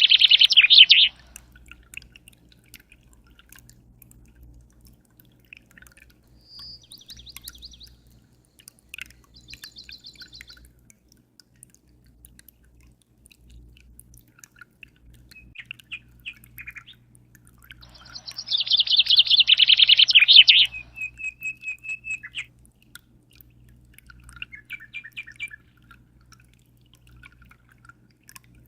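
A songbird sings two loud, fast phrases, one at the start and one about two-thirds of the way in; the second ends in a short trill. Faint chirps and small drip-like clicks fall between them, over a low steady hum.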